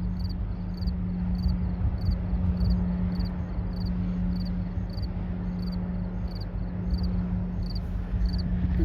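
Steady low drone of a passing tanker's engines: an even hum over a low rumble, which fades out near the end. A high chirp repeats about twice a second over it.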